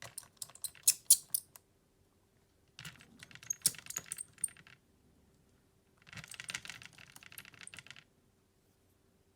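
Small hard parts and tools handled on a smartphone during a repair: three bursts of sharp clicks and taps, then scraping and rattling, with short pauses between them.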